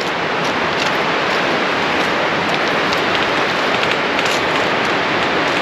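Steady rushing hiss with a few faint clicks.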